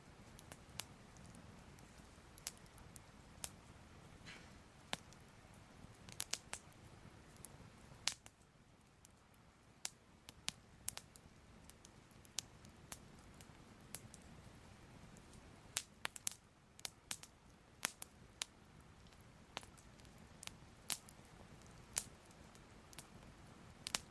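Crackling fire: soft, irregular pops and snaps, some in quick clusters, over a faint low rumble.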